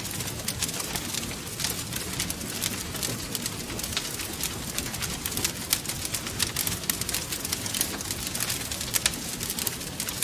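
Wood fire crackling steadily: many quick, sharp pops and snaps over a low, steady rumble of burning.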